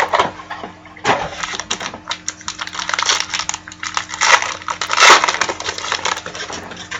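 Trading card pack wrapper crinkling and tearing as it is opened by hand, a dense run of crackles and snaps, loudest about five seconds in.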